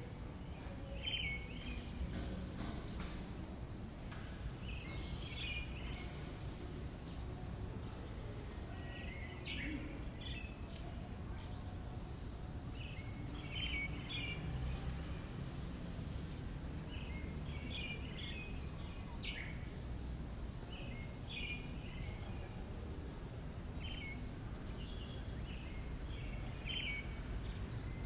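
Small birds chirping in short bursts every second or two over a steady low background rumble.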